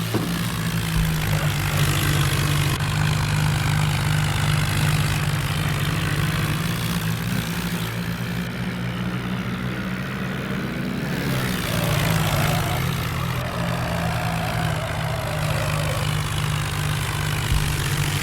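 Diesel tractor engine running steadily, with a brief change in pitch about ten seconds in.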